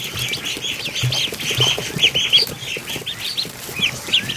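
A crowd of young ducklings peeping all at once: many short, high, overlapping calls.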